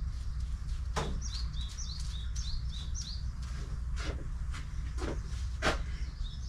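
Small birds chirping: a quick run of short, high chirp notes repeated about every quarter second in the first half, over a steady low outdoor hum. A few sharp sudden sounds cut in here and there.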